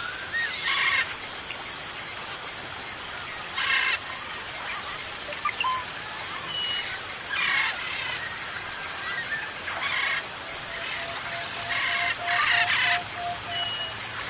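Parrots giving harsh, raspy squawks about every two to three seconds, over a background of smaller birds chirping and whistling with a steady, evenly repeated high call.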